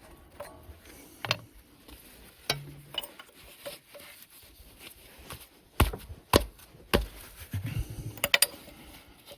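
A box-end wrench working bolts on a Caterpillar D2 engine: scattered metallic clicks and knocks. Three sharper knocks come a little past halfway, then a quick run of clicks near the end.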